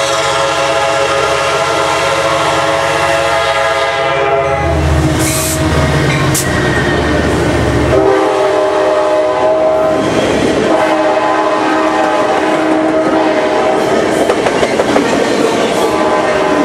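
Sounder commuter train passing close, its horn blowing: a long blast that breaks off about four seconds in and sounds again, lower in pitch, from about eight seconds in. A low diesel rumble fills the first half as the train comes by, and the wheels clatter over the rail joints as the bi-level coaches pass.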